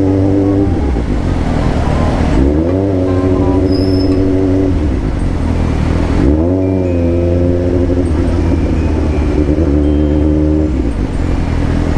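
Suzuki GSR750's inline-four engine running under way. Its pitch holds steady, drops just under a second in, climbs again about two seconds in and once more about six seconds in, and drops near the end, as the throttle is opened and closed.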